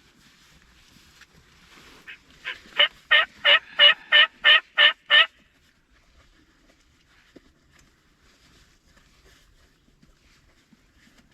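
A series of about ten hen-turkey yelps made on a hunter's turkey call, about three a second, building in loudness over the first few notes and then holding steady: calling to draw a gobbler in.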